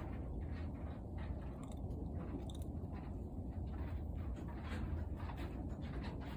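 A cat chewing dry treats: a quick, irregular run of small crunches, a few a second, over a steady low rumble.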